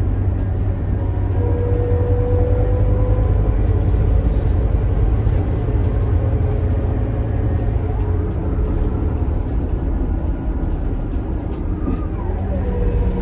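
Scania K280IB coach's Scania DC9 five-cylinder turbo diesel and ZF Ecomat six-speed automatic running under way, with a heavy low rumble. A whine slides down in pitch near the end.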